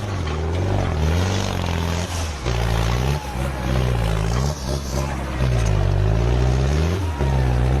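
Tractor diesel engine working under load, its pitch rising and falling repeatedly as the revs change.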